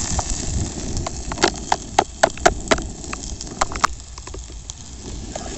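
Chopped garlic and ginger sizzling as they go into hot mustard oil in a pan, with sharp crackling pops through the middle. The sizzle dies down near the end.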